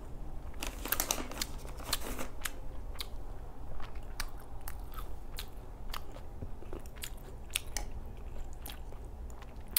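Close-up chewing of food, with wet mouth clicks and lip smacks scattered irregularly.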